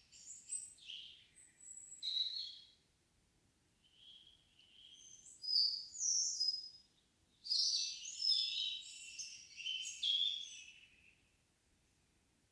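Songbirds singing in a forest at dusk: three bursts of quick, varied high-pitched notes separated by short pauses, ending about eleven seconds in.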